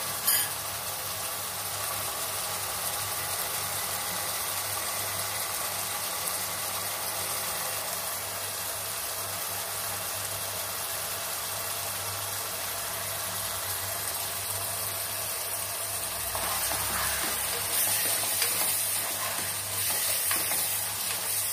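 Chopped onions and tomatoes frying in ghee and oil in a pot, a steady sizzle. From about two-thirds of the way in, a spatula stirs and scrapes through the masala.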